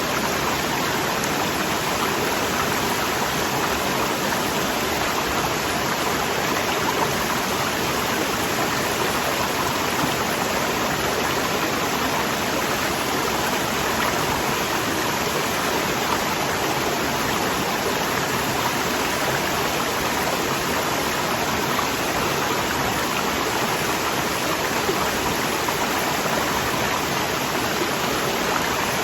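Waterfall rushing: a strong, steady flow of falling water that stays even throughout.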